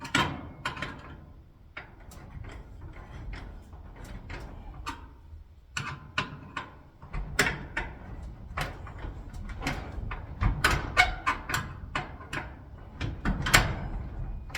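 Irregular clicks, clinks and knocks of small metal hardware being handled and fastened on a garage door lock kit, with a low rumble underneath.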